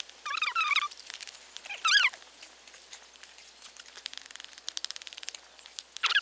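A bird calls in short warbling phrases three times: near the start, at about two seconds and just before the end. Faint rapid ticking runs in between.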